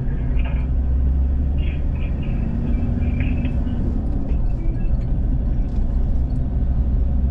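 Steady low rumble of a moving car's engine and road noise, heard from inside the vehicle.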